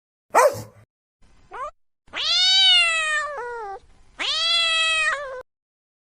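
A cat meowing: two long drawn-out meows, each dropping in pitch at the end. They follow a short sharp cry about half a second in and a brief rising squeak.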